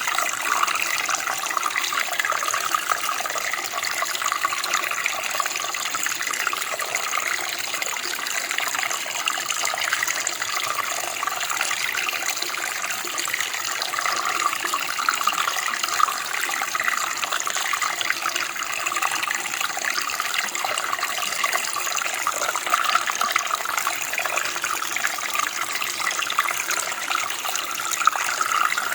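Running water of a stream or creek flowing steadily over stones, a continuous splashing rush.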